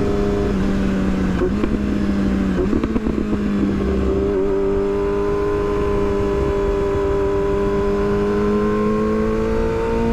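Yamaha R6 inline-four motorcycle engine running at steady revs while riding, with a brief unsettled patch of clicks and dips in pitch about two seconds in. The pitch climbs slowly near the end as the bike speeds up.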